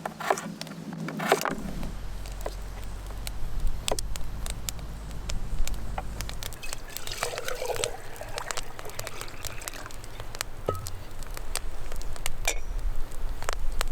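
Potatoes being peeled with a knife and handled in water: a scatter of small clicks and short scrapes with light splashing, over a low rumble.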